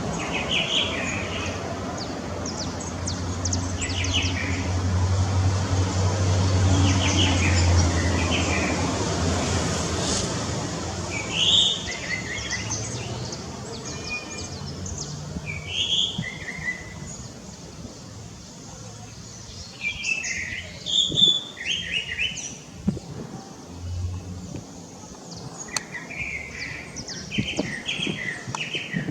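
Small birds chirping in short repeated phrases, over the rumble of a jet aircraft flying overhead. The rumble swells over the first several seconds and fades away by about halfway through.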